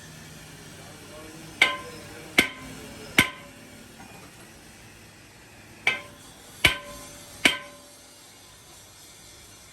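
Hammer striking metal six times, in two sets of three blows about a second apart, each blow ringing briefly.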